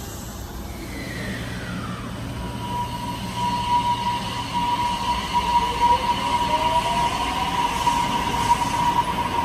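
Electric train's motors whining as it moves through the station: a high whine drops in pitch and settles into a steady tone. A lower hum climbs in pitch as the train gathers speed, and it grows louder as the train draws near.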